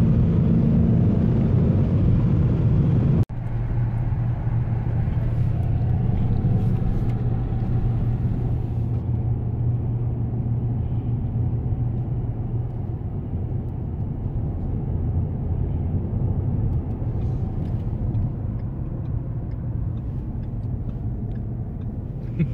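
Cabin sound of a 2017 Ford Mustang GT's 5.0-litre V8 cruising at motorway speed: a steady low engine drone mixed with tyre and road noise. It breaks off for an instant about three seconds in and carries on a little quieter.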